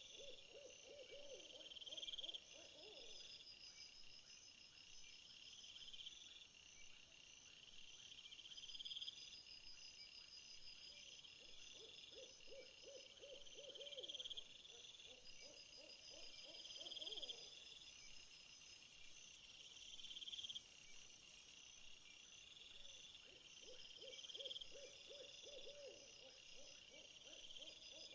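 Faint outdoor night ambience: insects chirp steadily in repeating high pulses. A low trilling call comes back about every twelve seconds. A high hiss joins in from about a quarter of the way through to about three quarters.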